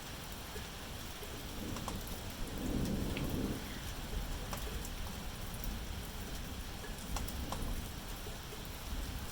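Steady rain falling, with scattered drops ticking on a surface. A low rumble of distant thunder swells and fades about three seconds in.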